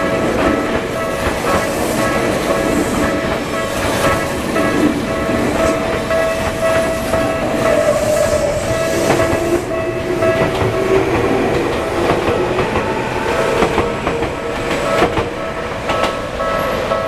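A Tokyu Oimachi Line electric train passing over a level crossing, its wheels clacking over the rails, while the crossing's warning bell rings on without a break.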